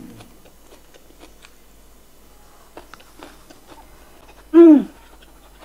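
A person chewing a mouthful of food close to a clip-on microphone: small wet mouth clicks and smacks. Near the end comes one short, loud hum that falls in pitch.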